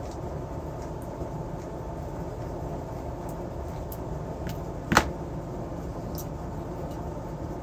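A steady low rushing hum, with a single sharp click about five seconds in and a few faint ticks.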